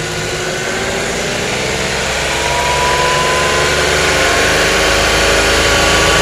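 Datsun Go's three-cylinder petrol engine running, its revs climbing slowly and steadily and the sound growing gradually louder.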